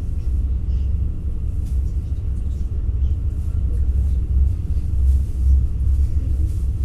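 Steady low rumble of a passenger train in motion, heard from inside the carriage, with faint clicks and rattles above it.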